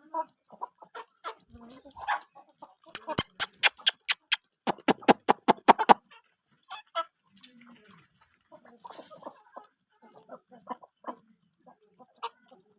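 Chickens clucking in short, scattered calls. From about three seconds in to about six seconds in, a quick run of sharp taps comes about five a second.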